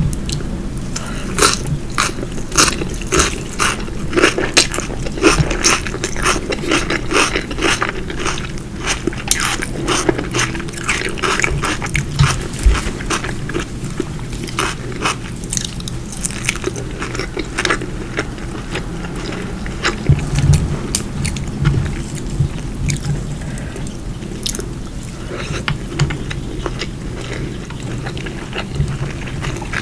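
Close-miked chewing and biting of food, with many wet, crisp mouth clicks. They come thickly through the first half and grow sparser later on.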